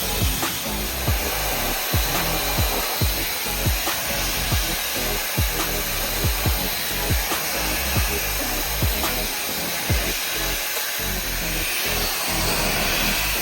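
Dreame Pocket high-speed hair dryer blowing with a steady hiss of air. Background music with a steady beat plays under it.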